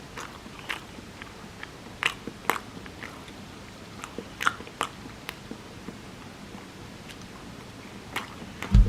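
A person biting and chewing food close to the microphone, with irregular short crunchy clicks.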